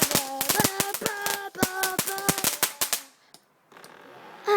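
A firework crackling with a rapid run of sharp bangs, several a second, with brief whistling tones among them. It stops about three seconds in.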